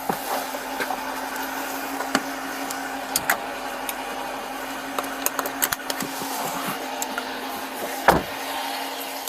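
Steady fan-like hum with scattered clicks and rustles of handling, and one heavy thump about eight seconds in: a patrol car door being shut.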